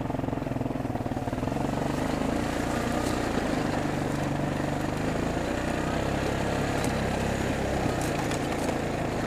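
Four-wheeler (ATV) engine running under way as it is ridden along a trail, the engine note rising about a second and a half in, with a few brief sharp ticks later on.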